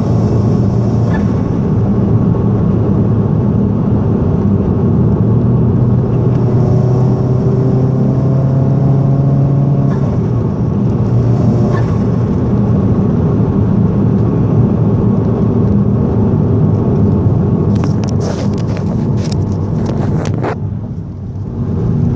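Vauxhall Astra VXR's 2.0-litre turbocharged four-cylinder engine running loudly through a Cobra cat-back exhaust, with a thin high-pitched turbo screech that rises, holds and falls away a few times. The screech appeared after a vacuum box delete and dump valve removal. A run of sharp crackles comes near the end.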